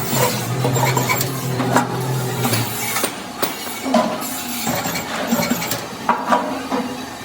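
Irregular metallic clinks and knocks from sheet-metal motorcycle fuel tank parts being handled and worked, over a steady low hum that stops about two and a half seconds in.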